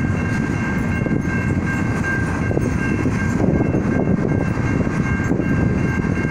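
Freight train of tank cars rolling past at a grade crossing: a steady, loud rumble of the cars, with steady high ringing tones held over it.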